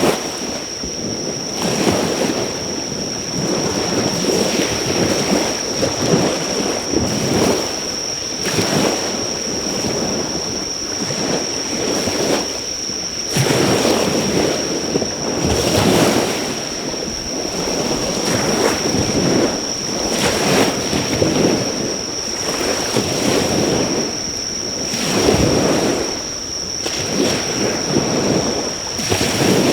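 Sea waves washing onto the shore in repeated surges every few seconds, over a steady high-pitched insect drone. A driftwood bonfire crackles faintly underneath, its sharp pops standing out now and then.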